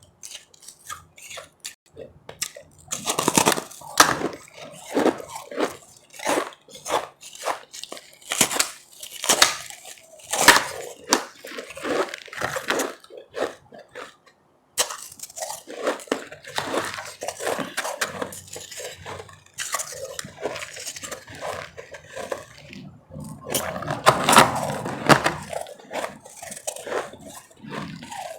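Ice being crunched and chewed close to the microphone, irregular sharp crackles with louder bursts of bites a few times.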